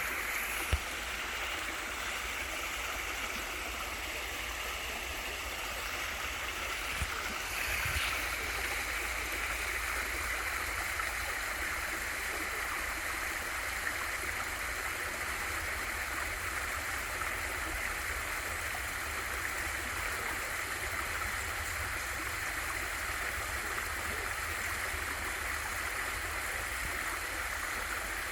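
Small waterfall in a mountain valley stream: a steady rush of falling and flowing water, with a couple of faint knocks.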